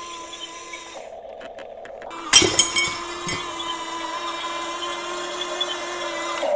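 A sudden crash with clinking ring about two seconds in, and a smaller knock a second later, over steady held tones.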